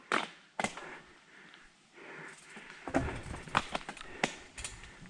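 Mountain bike moving over trail rock: a series of sharp knocks and clicks, about half a dozen, with a low rumble joining about three seconds in.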